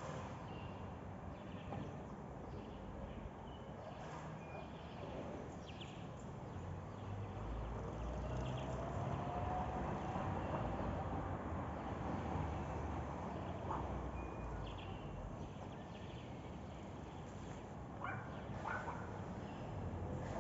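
Outdoor background noise with a few short, faint bird chirps scattered through, and a low rumble that swells in the middle.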